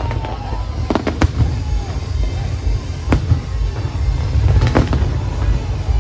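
Fireworks display: a continuous low rumble of bursts, with sharp cracks about a second in, again around three seconds, and a cluster of them near five seconds.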